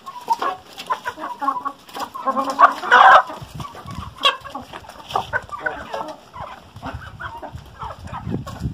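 A flock of hens clucking at the coop, many short calls overlapping, with a louder cluster of calls about three seconds in.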